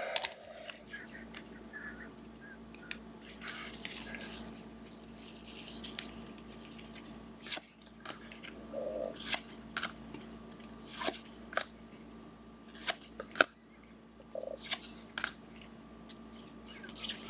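Trading card packs and cards being handled: irregular rustling, crinkling and sharp clicks and snaps, a few a second at times, over a faint steady electrical hum.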